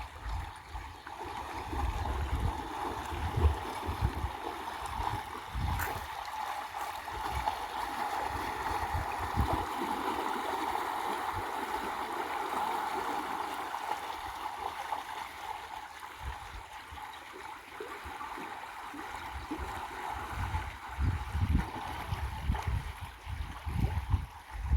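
Mountain river water flowing and gurgling steadily, with irregular low rumbles, heaviest near the start and again near the end.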